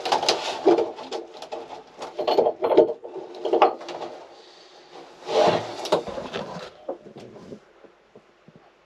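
Wooden interior panels being pried and pulled out by hand: irregular scrapes, creaks and knocks of boards, busiest in the first few seconds and again about five seconds in, then dying down.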